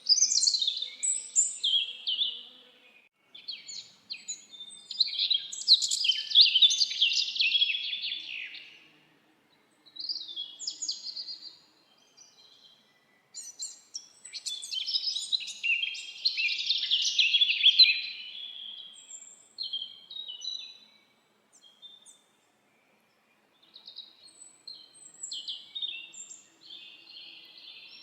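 Songbirds singing in a forest: long, rapid, warbling phrases of high chirps and trills, the loudest around a quarter of the way in and just past the middle, with a few short pauses between.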